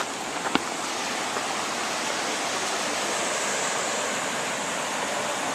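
Steady rush of a swollen stream pouring through a storm washout, with a couple of light clicks about half a second in.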